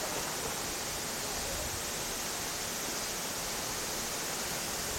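Steady hiss of river water flowing, with no separate events standing out.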